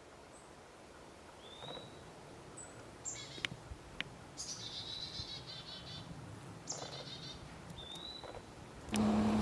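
Small songbirds calling: brief high rising chip notes a few seconds apart, and two rapid chattering trills in the middle. Near the end a sudden louder noise with a low steady hum comes in.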